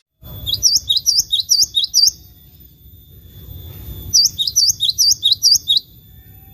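A songbird calling in two quick bouts of about six sharp, high whistled notes each, every note swooping down and back up; the second bout comes about two seconds after the first ends.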